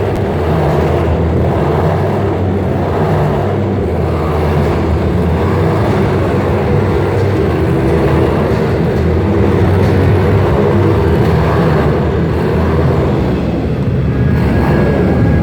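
Motorcycle engines running hard and revving continuously, a loud, steady, unbroken drone that swells and eases slightly.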